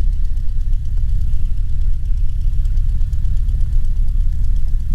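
Cessna 150's Continental O-200 four-cylinder engine idling on the ground after landing, a steady low drone with no change in pitch.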